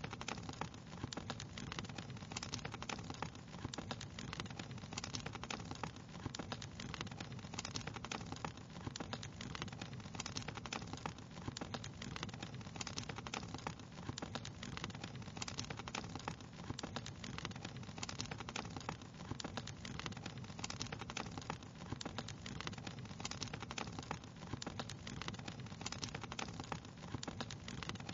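A fireplace fire crackling: a dense, steady stream of small irregular snaps and pops over a soft continuous hiss.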